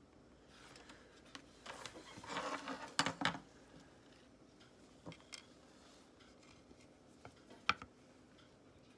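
Small hard objects handled by hand on a workbench: a second or so of scraping and rubbing, then a couple of sharp clicks, with single clicks later on.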